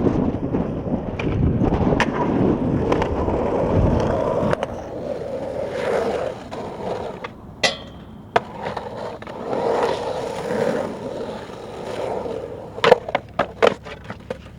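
Skateboard rolling with a steady wheel rumble. There are two sharp clacks a little before the middle, and a quick run of hard clacks from the board hitting the ground near the end.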